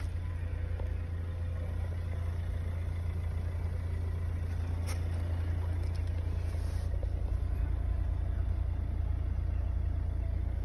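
Kia Sportage engine idling steadily, a low even hum heard in the cabin, with one brief click about five seconds in.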